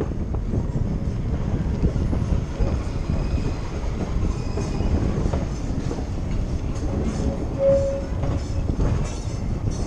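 A rail car rolling along the track: a steady low rumble with frequent wheel clicks and clatter, and a brief squeal about eight seconds in.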